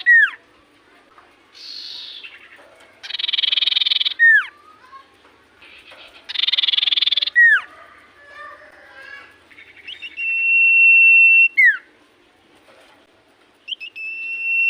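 Common iora (cipoh) singing: two rasping, buzzy trills about a second long in the first half, each ending in a quick falling whistle, then two long steady whistles, about ten seconds in and near the end, each dropping sharply at its close.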